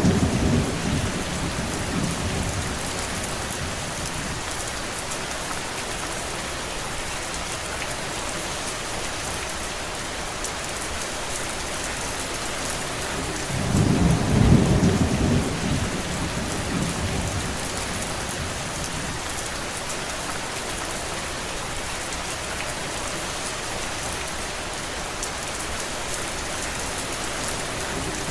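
Steady rain, an even dense hiss. A deep low rumble swells near the start and again about halfway through, each lasting a few seconds.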